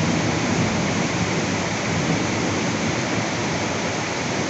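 Heavy tropical downpour: a steady, loud rush of rain with no let-up.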